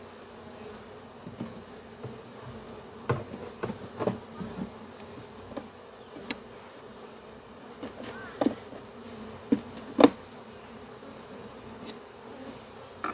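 A honey bee swarm buzzing steadily, with scattered knocks and clicks from handling, the loudest about ten seconds in.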